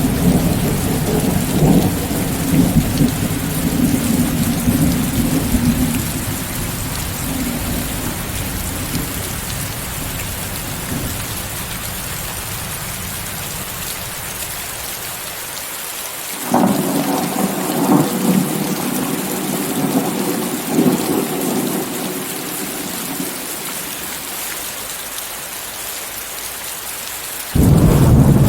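Steady rain hiss, blended with white noise, under rolling thunder. A low rumble dies away over the first ten seconds or so. A new peal of thunder breaks in suddenly a bit past halfway and rolls for several seconds. Another loud rumble starts just before the end.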